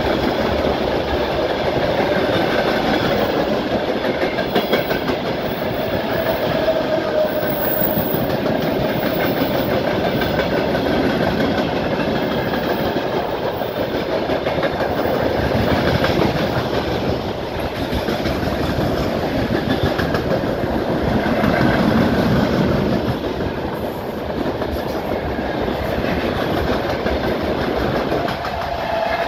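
Freight train wagons rolling past at line speed: a steady, loud clatter and rumble of steel wheels on the rails.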